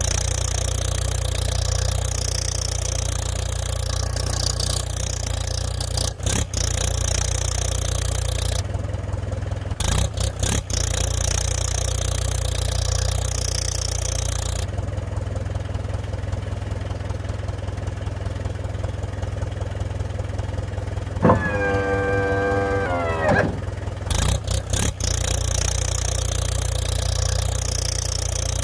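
An engine running steadily with a low hum, broken by a few brief cut-outs, and a short pitched tone, dipping slightly in pitch, about two-thirds of the way through.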